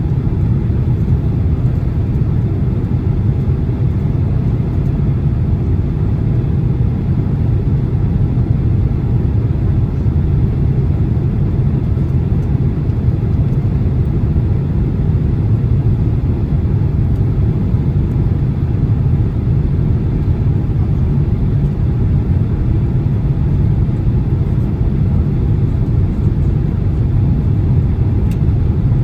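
Cabin noise inside a Boeing 767-300 airliner on approach: a steady, even low rumble of engines and airflow.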